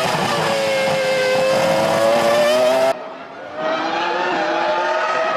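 Formula One 3.0-litre V10 race engine at high revs, its note dipping slightly and then climbing. About three seconds in the sound cuts abruptly, and after a brief dip another car's engine comes in, rising in pitch.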